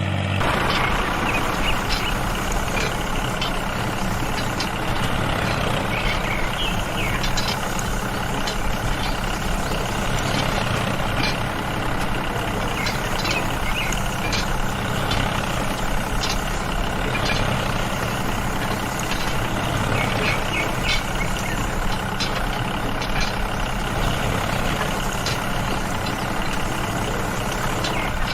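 Small motor of a home-built mini tractor running steadily, with many short clicks and rattles over the motor sound.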